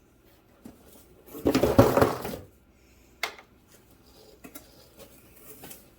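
Objects clattering as they are handled on a tabletop, one loud rattle of about a second, then a single sharp click about three seconds in and a few faint ticks.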